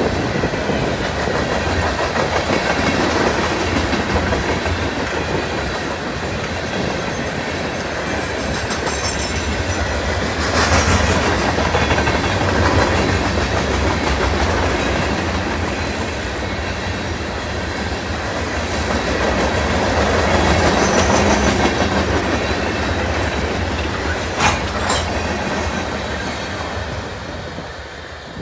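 Freight train of loaded anthracite coal hopper cars rolling past, wheels clattering steadily over the rail joints with a few short sharp metallic clanks. The sound fades near the end as the last car passes and moves away.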